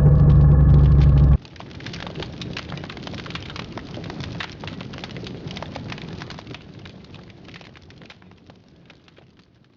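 A quad bike engine running steadily, which cuts off abruptly about a second and a half in. A dense crackle of many sharp clicks follows and fades away.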